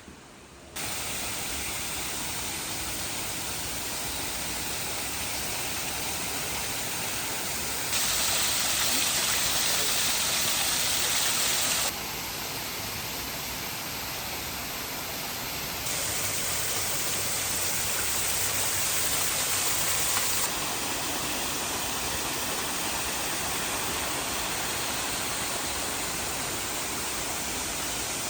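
Steady rushing water, spread evenly from low to high pitches, heard in several cut-together shots, each at a slightly different loudness, so it jumps up or down abruptly at each cut.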